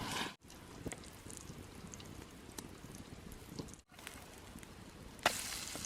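Faint sizzling with small crackles and pops, typical of food frying in a pan. It comes in short clips with abrupt cuts, and a louder stretch of the same starts near the end.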